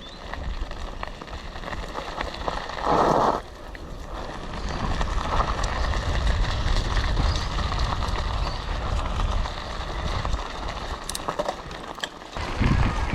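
Mountain bike being ridden on a dirt trail: a steady rumble of tyres and wind on the microphone, growing louder after the first second. A short loud burst comes about three seconds in, and a few sharp clicks near the end.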